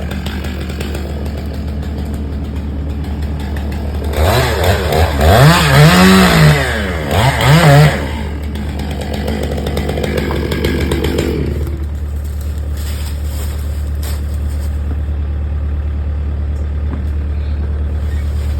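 Chainsaw engine running throughout, with a loud burst of revving, rising and falling in pitch, from about four to eight seconds in, then settling back to a steadier lower running.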